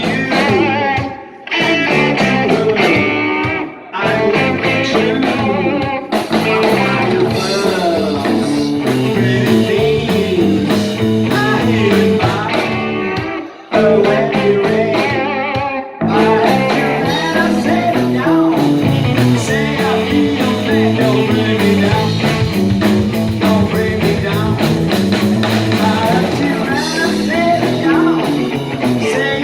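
Rock band playing a blues-rock song led by guitar, with a few short breaks in the playing.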